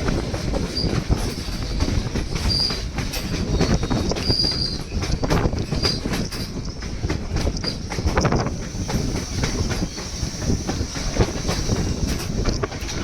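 Narrow-gauge White Pass & Yukon Route train running, its steel wheels clacking over the rail joints in a steady rumble, with several brief high wheel squeals.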